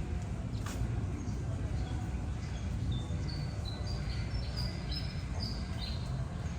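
A bird calling: a run of short, high chirps through the middle and latter part, over a steady low rumble.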